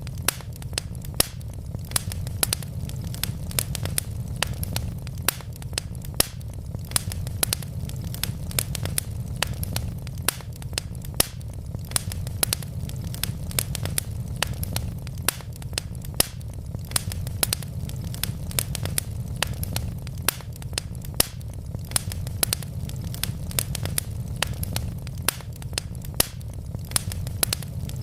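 Wood logs burning in a fireplace, crackling with many sharp, irregular pops several times a second over a steady low rumble of the flames.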